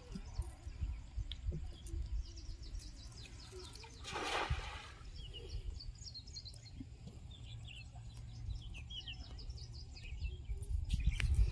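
Small birds chirping repeatedly in short high calls over a steady low rumble, with a brief rushing noise about four seconds in and the rumble growing louder near the end.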